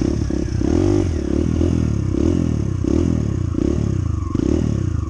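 Honda CT125's single-cylinder four-stroke engine running under way, its pitch rising and falling again and again as the throttle is worked.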